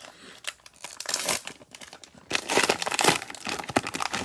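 Cellophane wrapper of a football-card cello pack crinkling as it is handled, in irregular bursts, loudest from about two and a half to three seconds in.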